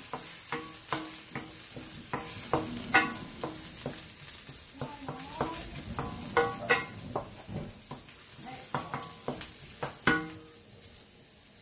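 Chopped garlic and ginger sizzling in canola oil in a stainless steel wok, stirred with a wooden spoon that scrapes and knocks against the pan many times. The sizzle and knocking die down in the last second or so.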